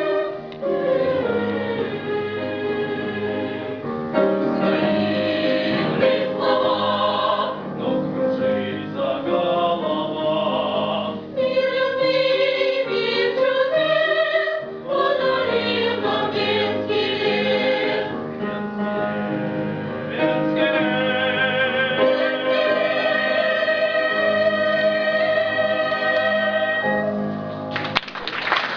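A vocal ensemble singing with instrumental accompaniment, in voices with vibrato, ending on long held notes. Audience applause breaks out near the end.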